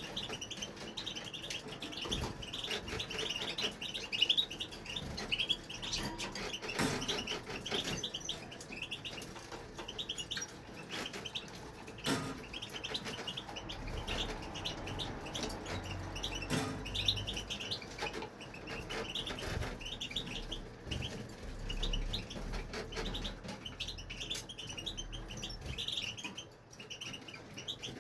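European goldfinch singing a long, continuous run of fast, high twittering, with a few short knocks mixed in.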